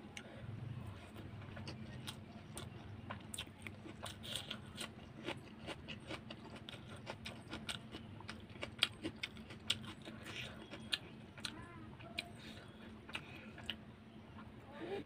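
Close-miked chewing of a mouthful of pork curry and rice with a crunchy fried topping: wet mouth smacks and clicks with crunches, many short sharp ones at an uneven pace, over a steady low hum.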